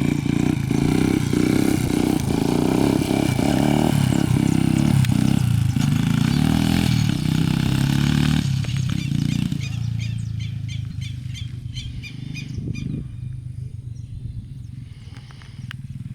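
Motorcycle engine revving hard as the rider pulls a wheelie, then fading away as the bike rides off. As it fades, a southern lapwing (quero-quero) calls repeatedly in quick, sharp notes.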